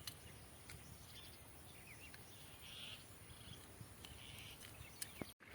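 Near silence: faint open-air field ambience with a few soft, brief chirps.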